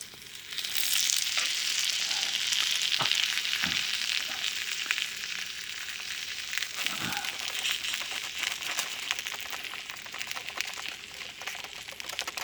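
Food frying, a steady sizzle with fine crackles that swells about half a second in and then slowly eases off.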